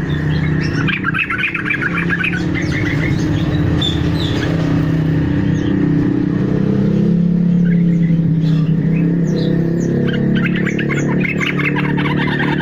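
Bird-lure recording of fruit-eating birds: a busy mix of chattering trills, squawks and short downward-sweeping whistles, with denser trilling near the end, over a loud steady low rumble.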